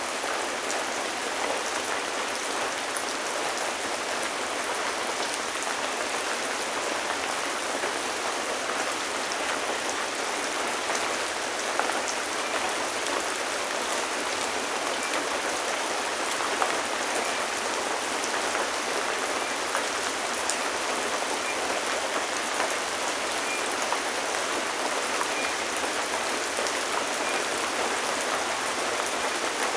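Steady rain falling, a dense even hiss with the patter of individual drops hitting a surface.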